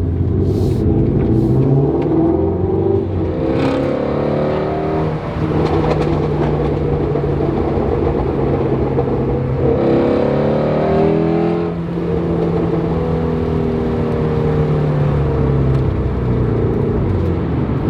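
Ford Shelby GT350R's 5.2-litre flat-plane-crank V8 under way, accelerating: the revs climb around four seconds in and again around ten seconds in, then it drops off briefly at a shift and runs on steadily.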